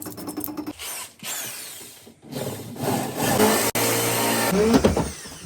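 Factory machine and tool noise: mechanical clatter with a motor's steady tones, getting louder about two and a half seconds in.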